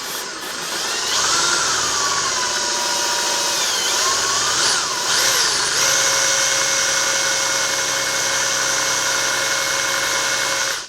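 Electric drill running steadily while spinning a badly worn scooter wheel bearing. The whine wavers in pitch for the first few seconds, then holds steady before stopping abruptly at the end.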